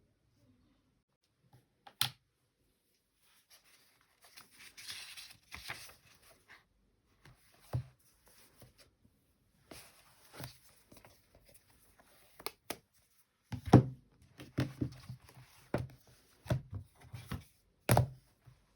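Assorted handling sounds: a sharp tap, a stretch of soft rustling, scattered clicks, then a run of knocks and thumps near the end.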